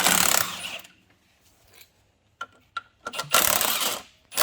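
Power tool run in two short bursts of about a second each, loosening bolts, with a few sharp metal clicks in the pause between.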